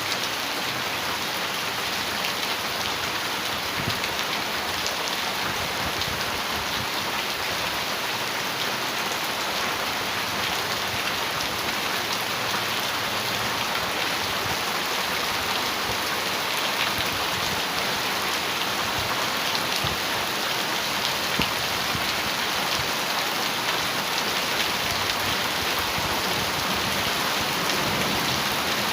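Heavy rain on a metal roof: a steady, dense patter of countless drop ticks.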